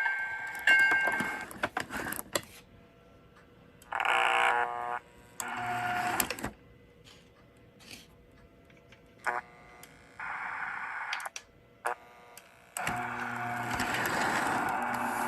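Electronic Proto-Sound effects from an MTH Railking model subway train. A chime rings about three times near the start, several short separate sound effects follow with quiet between, and from about 13 s a steady running sound starts.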